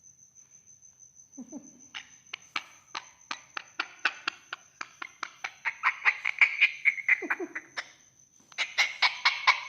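A parrot making a rapid run of short, sharp clicking calls, about three to four a second, which breaks off briefly near the end and starts again. A faint steady high whine sits underneath throughout.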